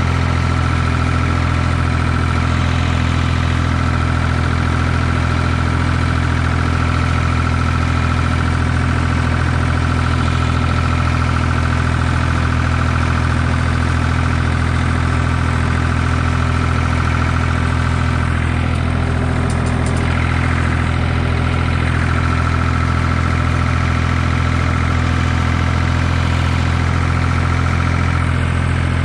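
Ford 2000 tractor's three-cylinder diesel engine running at a steady, unchanging speed.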